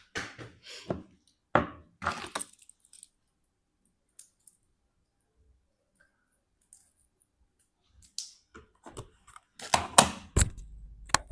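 Short rustles, clicks and knocks of close handling, in a cluster near the start and again near the end, with near silence between.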